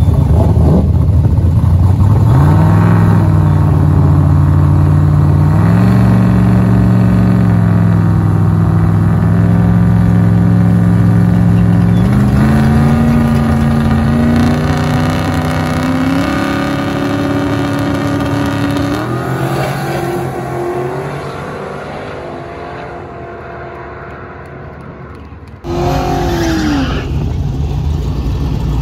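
Drag car's V8 engine at high revs, its pitch climbing in several steps and then fading as it pulls away. About three-quarters of the way in there is an abrupt cut to another loud engine.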